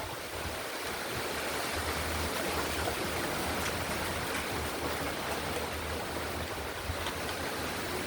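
Rainstorm with wind: rain pouring down in a steady, even hiss, with low rumbles of wind buffeting the microphone now and then.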